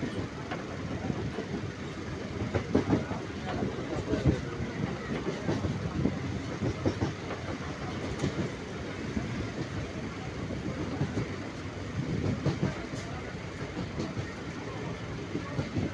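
Moving train: a steady rumble with irregular clatter of the wheels over the rails.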